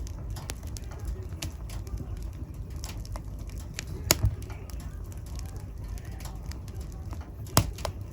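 Wood fire burning in a fireplace: a steady low rumble of the flames with scattered small crackles, and two sharp louder pops, about four seconds in and again near the end.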